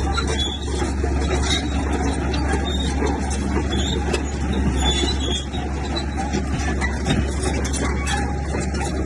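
Heavy diesel earthmoving machinery running steadily under load, with a constant low engine drone and scattered metallic clanks.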